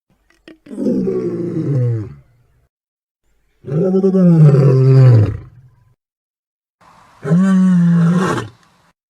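Designed monster-roar sound effect for Griffon, the winged-lion kaiju, built on lion roars: three separate roars, each about one and a half seconds long and dropping in pitch as it ends, with short silences between them.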